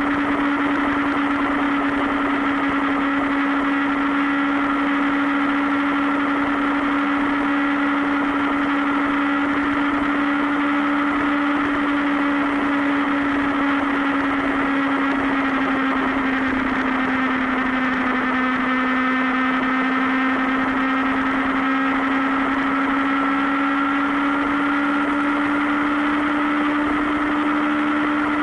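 Sport motorcycle engine running at a steady cruising speed, its pitch dipping slightly about halfway through and then climbing back.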